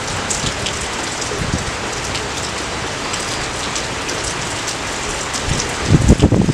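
Steady rain falling, an even hiss with scattered small drip ticks. A few louder, low thuds come near the end.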